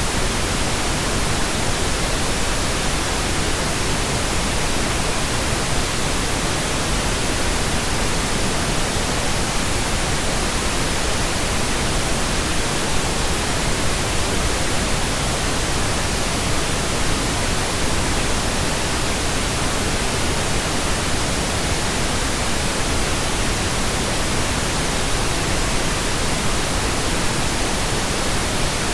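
Steady, unchanging pink noise generated in software: an even hiss spread across the whole range, with no tones or events.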